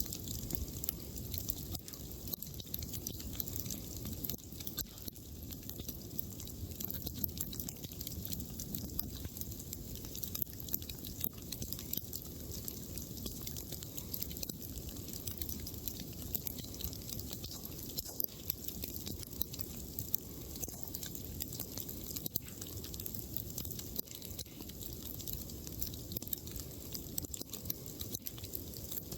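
Wood campfire crackling steadily, with frequent small pops over a low rumble.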